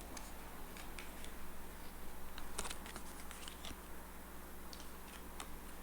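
Scattered light clicks and taps of tarot cards being handled and laid on a table, with a small cluster of them about halfway through.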